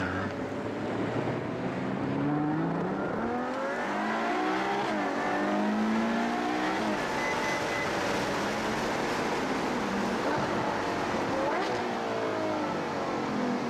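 Ferrari FF's naturally aspirated V12 accelerating through the gears: the engine note climbs several times and drops back at each upshift.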